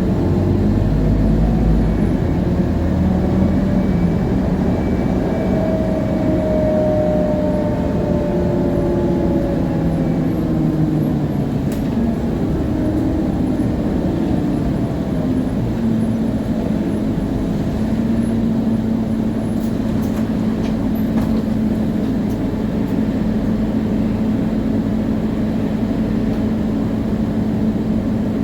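A Scania CN280UA city bus under way, heard from inside: its Scania DC9 diesel and ZF Ecomat automatic gearbox running, with the rear axle's gear whine plainly audible over a fairly quiet transmission. Whining tones fall in pitch through the first half, then one tone holds steady from a little past halfway. A few brief rattles or clicks come near the middle.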